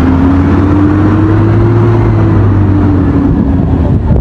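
Road vehicle engine going by amid traffic noise: its pitch rises for about two seconds, then falls away, over a steady low hum.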